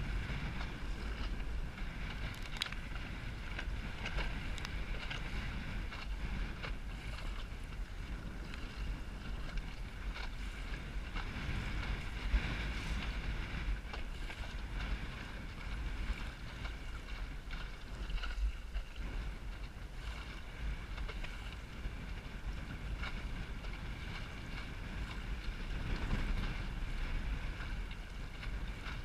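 Strong wind buffeting the microphone aboard a small Snark sailboat in high wind: a constant heavy rumble over a steady high-pitched hum, with a few scattered clicks.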